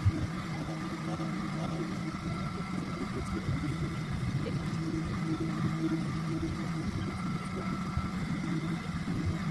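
A small motor running steadily, a hum with several held tones that waver a little, with one sharp click at the very start.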